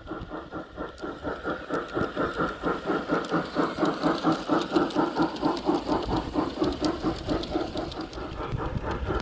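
G-scale garden railway train running, with an even rhythmic pulsing of about five beats a second.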